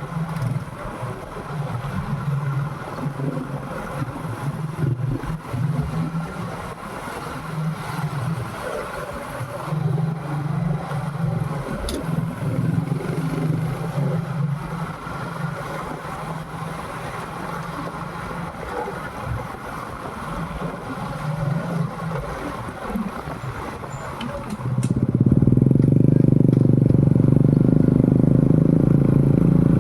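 Motorcycle engine running while riding, with road and wind noise. About 25 seconds in it becomes louder and steadier.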